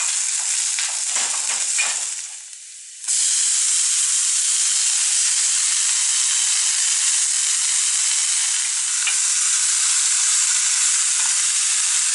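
Garlic frying in oil in a stainless steel pan, with stirring scrapes. About three seconds in, the sizzle dips and then jumps to a loud, steady sizzle as chopped capiçoba (Erechtites valerianifolius) leaves fry in the pan, with a few light knocks of the spoon later on.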